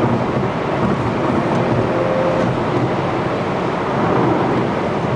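Steady road, tyre and wind noise inside a car's cabin at highway speed, around 140 km/h.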